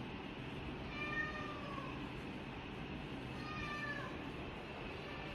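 Tortoiseshell kitten meowing twice: a drawn-out call about a second in and another near four seconds, each falling in pitch at its end.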